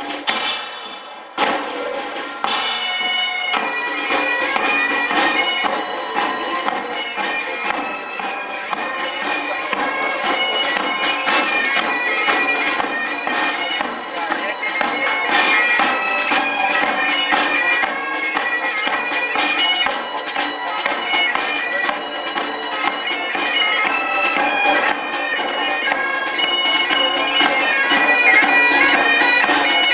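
Bagpipes playing a tune: steady drones under a chanter melody, striking up about two seconds in.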